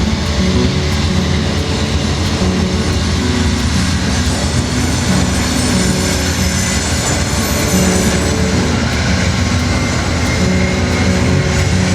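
Train rolling past on the BNSF line: a steady loud rumble of steel wheels on rail, with a thin high-pitched squeal running over it.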